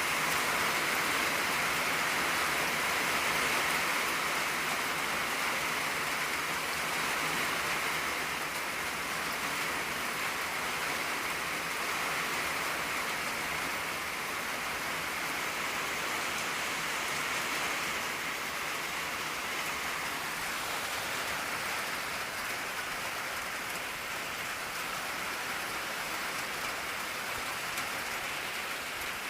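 Steady rain drumming on an old tin roof, a dense even hiss with no individual drops standing out.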